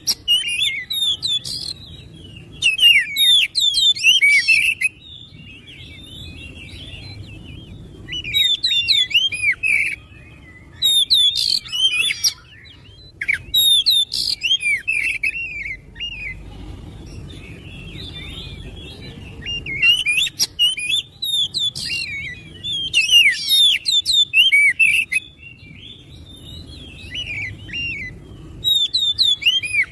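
Oriental magpie-robin (kacer) singing energetically: bouts of rapid, varied whistles, sweeps and trills lasting a second to a few seconds, broken by short pauses, the full 'gacor' song used to provoke other magpie-robins into singing.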